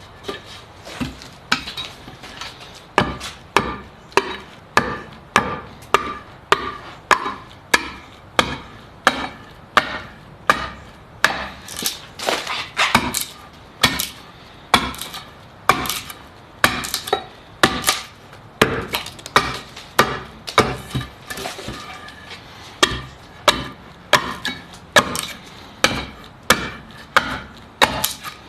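A hand tool striking wood over and over: a steady run of sharp blows, roughly two a second, typical of hand-chopping or mallet work.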